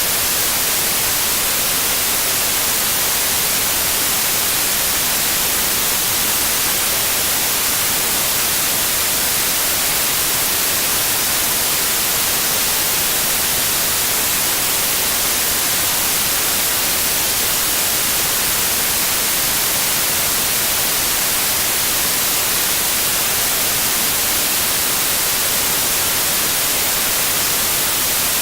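Steady electronically generated white noise: an even, unchanging hiss spread across all pitches, brightest in the treble.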